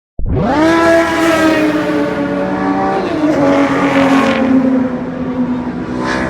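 Car engine revving hard: it jumps up in pitch at once, holds high, falls back about three seconds in, then rises again near the end.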